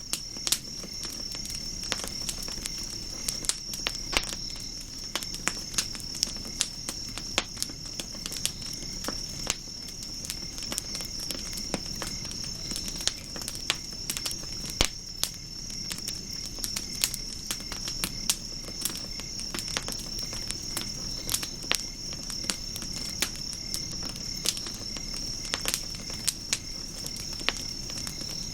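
Wood campfire crackling with frequent irregular sharp pops over a low rumble of burning, with a steady high-pitched trill in the background.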